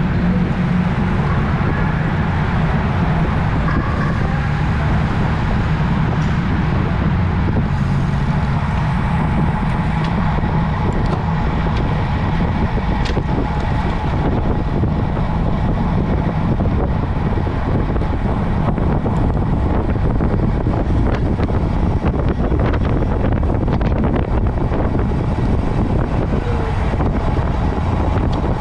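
Steady rush of wind and road noise while riding a road bike at speed, with a heavy low rumble throughout.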